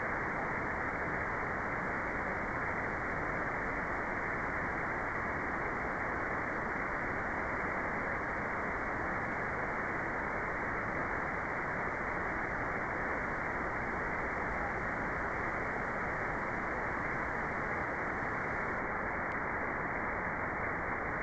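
Steady white noise for meditation, an even hiss with its treble cut away, so it sounds muffled and unchanging.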